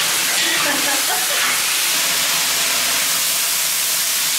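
Pork and potatoes sizzling and steaming in a large wok, a loud, steady hiss, with water just added to the hot pan.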